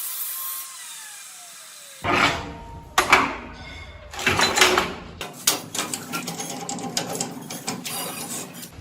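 Workshop tool noise: sharp knocks and clanks start suddenly about two seconds in, then give way to a rapid rattling like a small power tool running.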